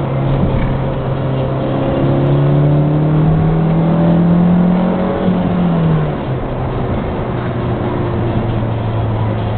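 Honda Fit RS's 1.5-litre four-cylinder engine heard from inside the cabin over steady road noise. The engine note climbs in pitch under acceleration for a few seconds, then drops back about six seconds in and runs on steadily.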